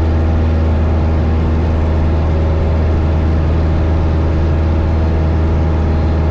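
Steady drone of a 1972 Cessna 172 Skyhawk's four-cylinder Lycoming O-320 engine and propeller, heard from inside the cabin in flight. It is a loud, even, deep hum with no change in pitch.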